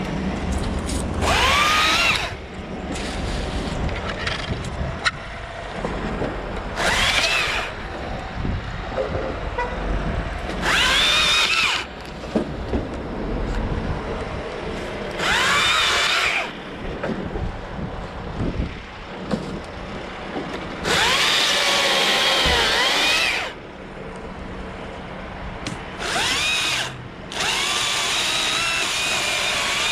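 Chainsaw cutting in about seven short bursts, each one revving up with a rising whine and dropping away after a second or two, over a steady lower background noise.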